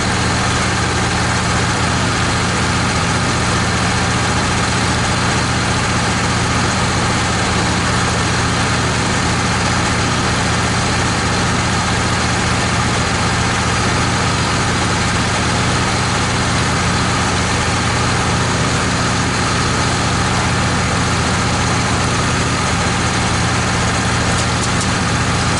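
Wood-Mizer LT15 portable bandsaw sawmill's engine running steadily at an even pitch.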